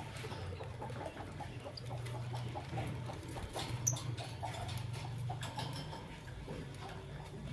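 Lovebirds chirping and chattering in small quick calls, over a steady low hum. A single sharp click about four seconds in is the loudest sound.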